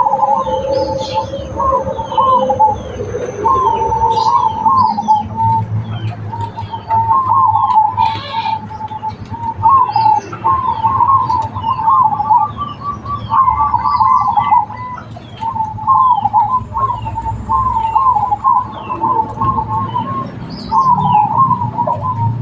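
Zebra doves (perkutut) cooing, one rolling coo phrase after another with hardly a pause. Faint high chirps of smaller birds sound above them.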